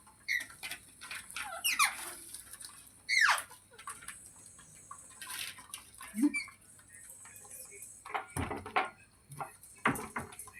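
Pet green parrot making short squeaks and chirps that slide down in pitch, the two clearest about two and three seconds in, among scattered small clicks and taps.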